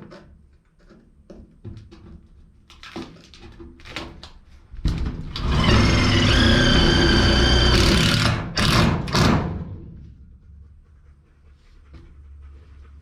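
Drill driving a self-tapping screw through a shed's thin sheet-steel wall: a run of about three seconds with a screeching whine, then two short bursts as the screw is driven home. Light handling clicks and knocks come before it.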